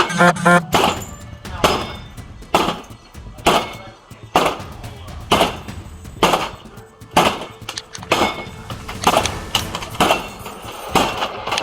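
Heavy, evenly spaced knocks about once a second, each sharp and ringing briefly.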